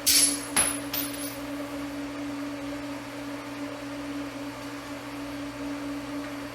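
Three sharp metal-on-metal strikes in the first second and a half, each with a brief bright ring, from steel being punched during fly-press work. Under them runs a steady low electrical hum.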